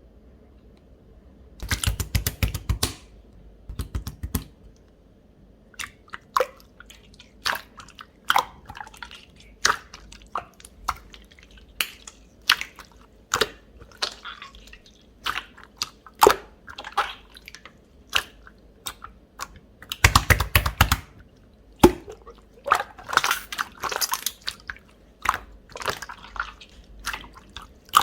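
Jelly-textured slime being squished and pressed by hand, giving wet, sticky clicks and pops every half second or so. Two denser crackling squelches come about two seconds in and again near twenty seconds.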